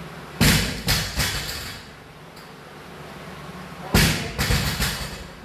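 Loaded barbell dropped onto the gym floor twice, about three and a half seconds apart, each drop a heavy thud followed by a few smaller knocks as the plates bounce and settle.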